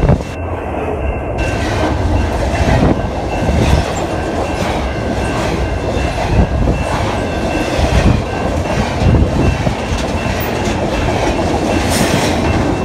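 CN double-stack intermodal freight train rolling past: a steady heavy rumble from the well cars, with the wheels clicking irregularly over the rail joints and a faint steady high whine above it.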